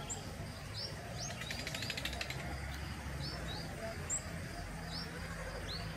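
Small birds calling in the trees: short, high chirps that slur quickly downward, repeated every half second to a second, with a fast rattling trill about a second in, over a low steady rumble.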